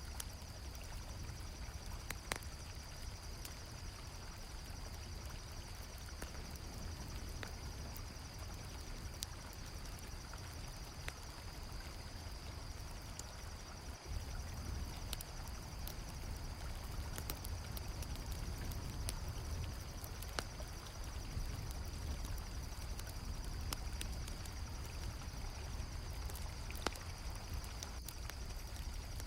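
Flowing river water with a campfire crackling in scattered sharp pops, over a steady high trill of crickets. The water grows slightly louder about halfway through.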